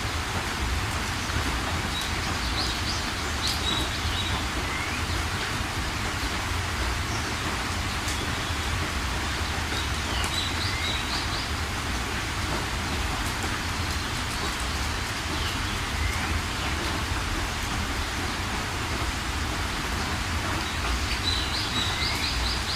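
Steady rain with birds chirping over it, short high calls coming every few seconds.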